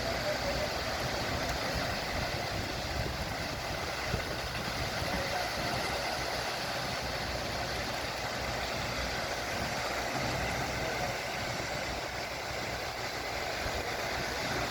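Heavy truck engines running steadily: a concrete pump truck and a cement mixer truck at work, pumping concrete.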